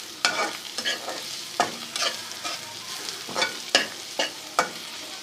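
Onion, garlic-ginger and spice masala sizzling as it fries in ghee in a pan, being stirred and roasted, with the spoon scraping and knocking against the pan every half second to a second.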